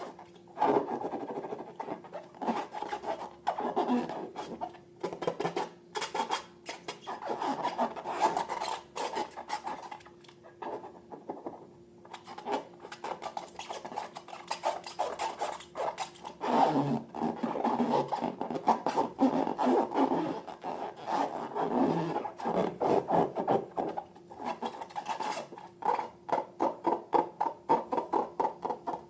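Slime being stirred and worked by hand, with sticky crackling and rasping in a dense, irregular run of small clicks. It eases off briefly about ten seconds in, then picks up again.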